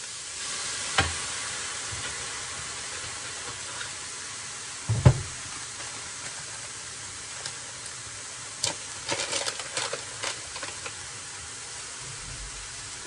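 Chicken pieces sizzling in a stainless steel electric skillet, cooking without oil, with soy sauce just added. A knock comes about a second in and a louder one about five seconds in. A run of small crinkly clicks follows around nine to ten seconds in as a seasoning sachet is torn open.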